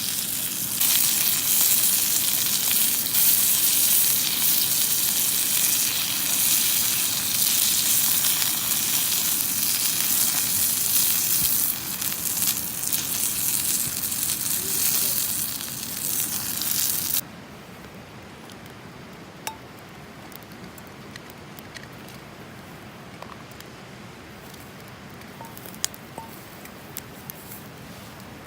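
Food frying in a hot pan, a loud steady sizzle. It cuts off abruptly about seventeen seconds in, leaving a quiet background with a few faint clicks.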